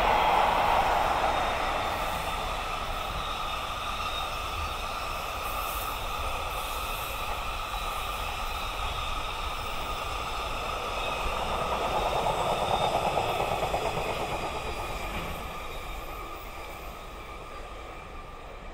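Freight train hauled by an EF66 electric locomotive rolling past on the rails, with faint steady tones over the wheel noise. It is loud at first, eases, swells again in the middle and fades away near the end.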